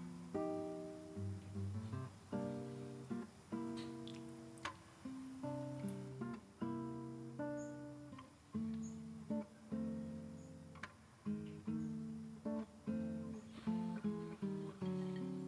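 Background music played on acoustic guitar, with strummed and plucked chords.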